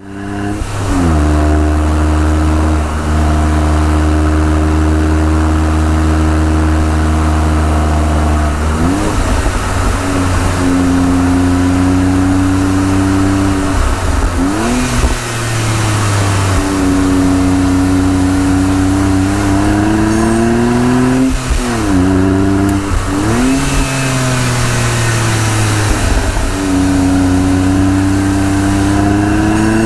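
Honda S660's small turbocharged three-cylinder engine under way through its six-speed manual gearbox. The note holds steady at first, then rises and falls again and again as the revs climb and drop with gear changes.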